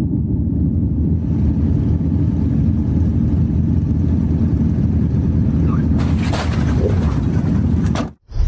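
Steady low rumble of a road vehicle on the move, with a noisy hiss rising over it about six seconds in; the sound cuts off abruptly near the end.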